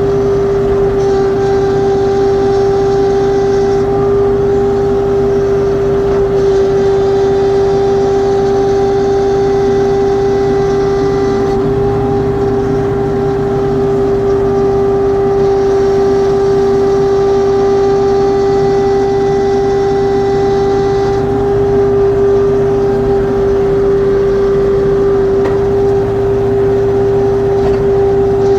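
LS XR3135C tractor running, with a loud, steady whine from its hydraulics that holds one pitch over the engine noise. This is the hydraulic noise fault that two dealer visits have not cured.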